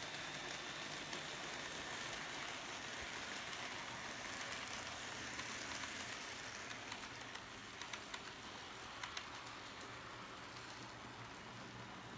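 N gauge model train running on the layout's track: a steady rolling hiss over a low hum, with a few sharp clicks about two-thirds of the way through.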